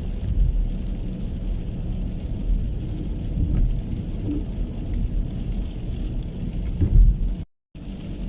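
Rain with a steady low rumble, broken by a brief dropout to silence near the end.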